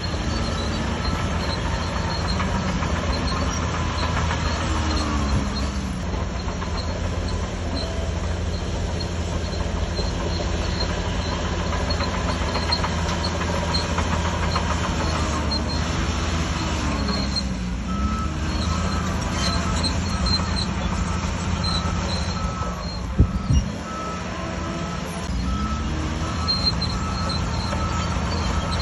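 A bulldozer's diesel engine running under load, its pitch dipping and rising several times as the load changes. From about two-thirds of the way through, a backup alarm beeps repeatedly, and a few sharp knocks sound shortly after.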